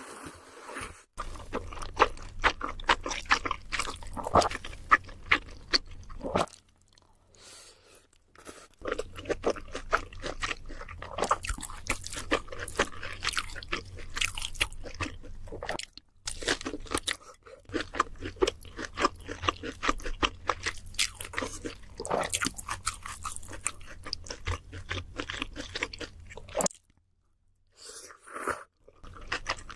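Close-miked crunching and chewing of crispy fried food, in several long stretches broken by short pauses.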